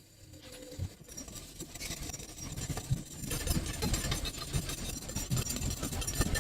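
An engine running and getting louder, thickening into a dense rattling sound from about three seconds in.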